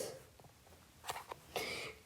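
A quiet pause in a room, with a couple of faint short clicks about a second in, then a soft breath-like hiss just before speech resumes.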